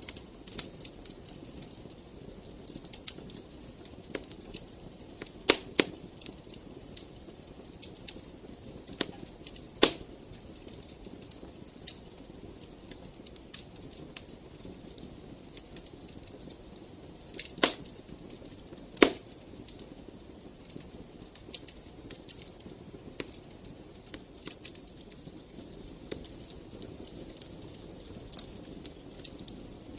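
Wood fire crackling in a fireplace: a stream of small ticks and snaps over a soft steady hiss, with a few louder pops.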